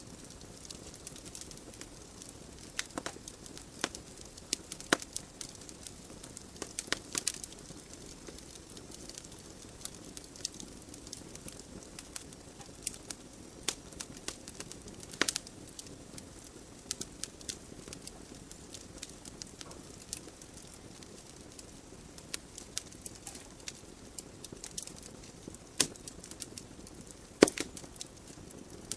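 Wood fire burning in a fireplace: a steady soft hiss of flames with irregular sharp crackles and pops from the burning logs.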